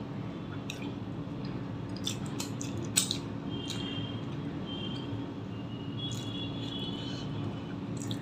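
Close-up eating sounds: chewing of paratha and egg curry, with soft clicks from the mouth and fingers, the sharpest about three seconds in, over a steady low hum.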